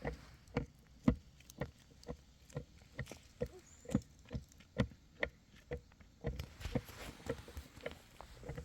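A steady series of sharp knocks, about two a second.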